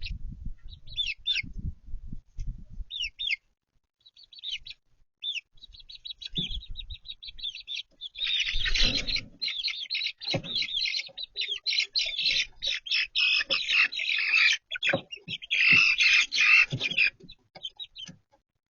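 Young chicks peeping: scattered high chirps at first, then a busy overlapping chorus of peeps for most of the second half, with a few low thumps underneath.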